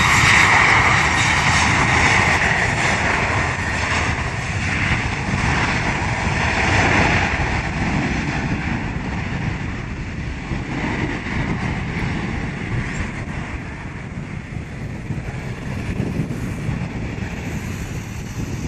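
Jet airliner engines roaring, slowly fading as the aircraft moves away.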